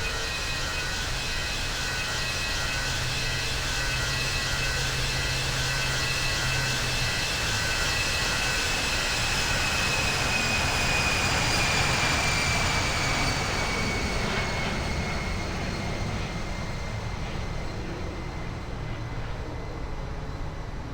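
Jet airliner's engines passing: a broad jet noise swelling to a peak about twelve seconds in and then fading, with a high whine that slowly drops in pitch as it goes by.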